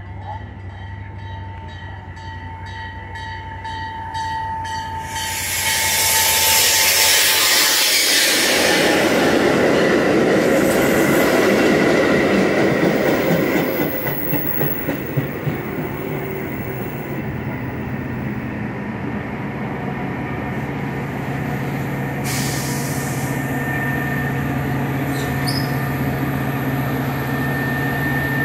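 Metra bilevel commuter train pulling into the station, pushed by its diesel locomotive. A rumble builds and becomes a loud rush as the cars come alongside, then the wheels click over the rail joints as it slows, and the locomotive's steady engine hum carries on as it draws past the platform.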